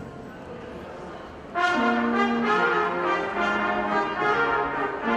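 Brass ensemble playing: a held chord ends, and after a quieter moment the brass comes back in loudly about a second and a half in with sustained chords that move from note to note.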